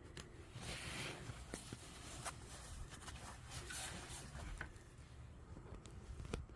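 Faint rustling and handling of soft bags or clothing, with scattered light clicks and knocks, as belongings are fitted into a tight space.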